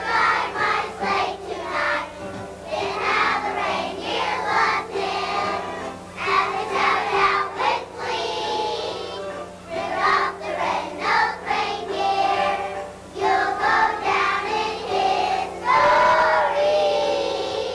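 Elementary school children's choir singing with musical accompaniment, holding one long note near the end.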